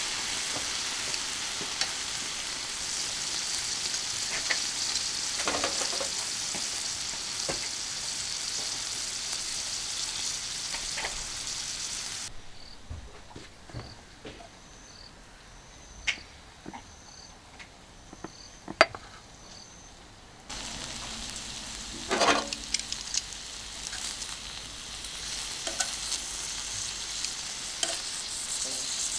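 Kalbi beef sizzling on a small iron griddle, a steady frying hiss. In the middle the sizzle drops away for several seconds, and a few sharp clicks are heard before it comes back.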